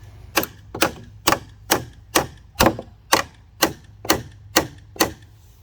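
Hammer blows in fence repair work: eleven sharp, evenly spaced strikes, a little over two a second, over a steady low hum.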